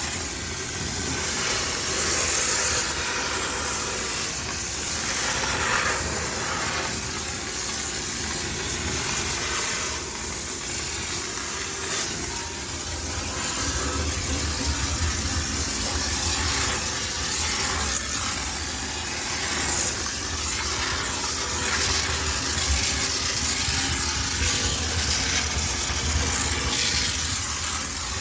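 High-pressure steam cleaner blasting steam to sterilize a self-service laundromat washing machine: a steady hiss over a low machine hum.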